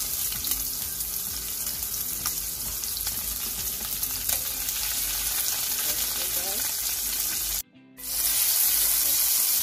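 Bacon strips and pork sausage patties sizzling steadily in hot fat in a frying pan, with a few light clicks of tongs against the pan as the bacon is turned. The sizzle breaks off for a moment near the end, then carries on.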